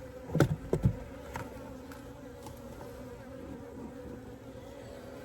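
Honeybees buzzing in a steady hum around an open hive, with two sharp wooden knocks within the first second as a frame is set into the hive.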